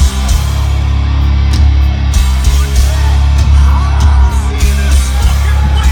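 Live heavy metal band playing loud, with distorted electric guitars, heavy bass and drums, and some vocals or crowd voices over the top.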